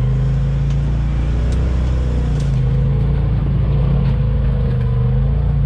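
Side-by-side off-road vehicle's engine running at low, fairly steady speed, its pitch wavering slightly, with a few light clicks or knocks over it.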